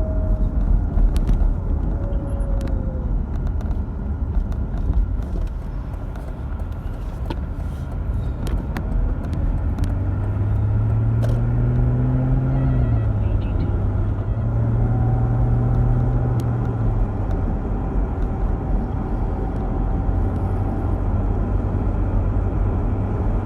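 Mercedes-Benz W210 E-Class driving, with steady road rumble. A droning hum swells in about ten seconds in and bends up and back down, and a thin whistle comes in over it later. This is the unexplained hum and whistle the owners are trying to trace.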